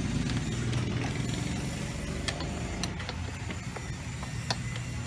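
An engine running steadily at idle as a low hum, with a few sharp small clicks scattered through it.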